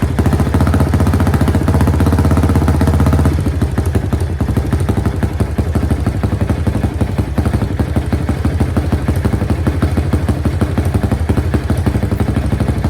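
Suzuki GAG mini motorcycle engine running with a rapid, even beat. It runs a little faster and louder for about the first three seconds, then settles back to a steady idle.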